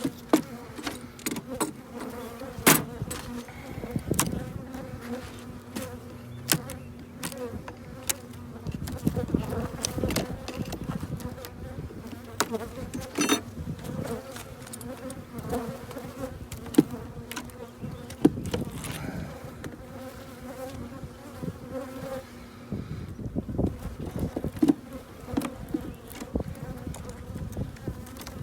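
Honeybees buzzing in a steady hum around an open hive, with frequent sharp clicks and knocks as the hive frames are handled.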